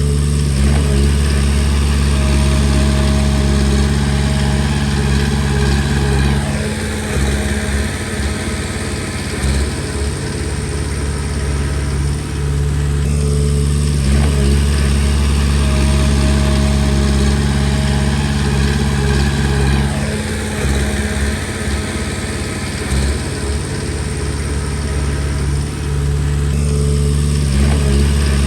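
Komatsu D20P crawler bulldozer's diesel engine running and working. Its note holds steady for a few seconds and then goes rough and uneven, in a cycle that repeats about every six to seven seconds.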